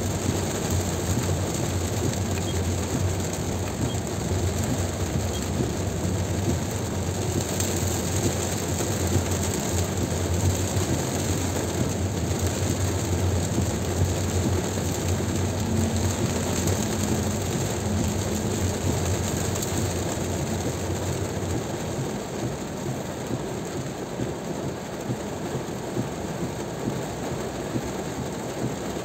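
Steady noise of a car driving on a highway in heavy rain: road and engine rumble mixed with the hiss of rain and wet tyres. The low rumble eases off about two-thirds of the way through.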